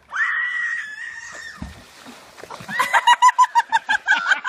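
Chicken giving one long, high squawk, then, after a short gap, a rapid run of clucks at about seven a second.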